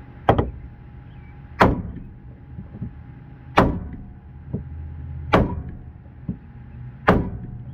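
Repeated heavy blows on metal: five loud, sharp strikes with short ringing tails about every 1.7 s, with lighter knocks between them, over a steady low hum.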